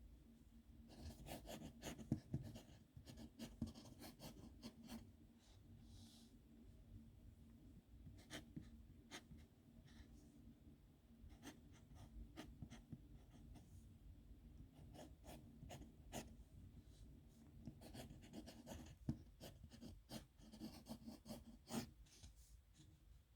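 Pen writing a signature on paper, faint: the nib scratches in many quick short strokes in irregular bursts with brief pauses between them.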